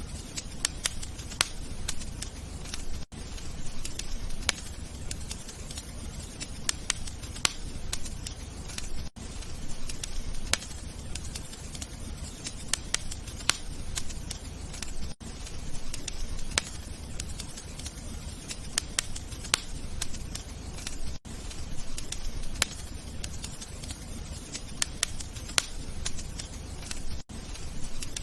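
Wood fire crackling in a fireplace: irregular sharp pops and snaps over a low steady rumble, with a brief dropout about every six seconds.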